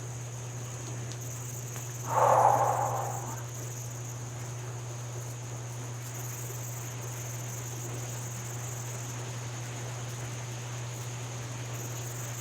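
Steady insect chirring, typical of crickets, over a constant background hiss, with one brief louder harsh sound about two seconds in.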